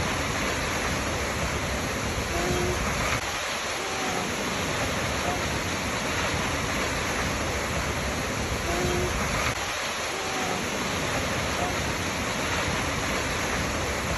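Waterfall: a steady, even rush of falling water, with faint short tonal notes that recur about every six seconds.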